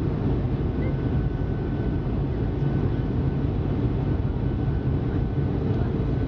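Steady low rumble of a Boeing 757 airliner heard from inside the cabin, engine and airflow noise with a faint steady whine above it.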